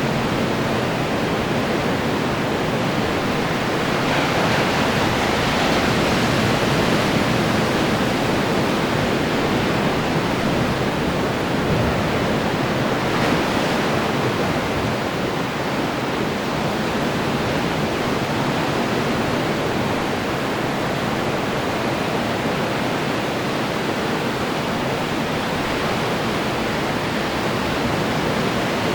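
Ocean surf breaking on the shore, a continuous rush of white water that swells slightly a few seconds in and again about halfway through.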